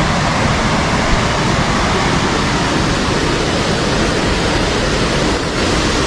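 Mawsawa Falls, a large waterfall, rushing loudly and steadily.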